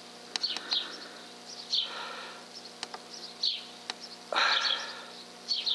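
Small birds chirping in short calls over a steady faint hum, with a few sharp clicks and a louder burst of noise about four seconds in.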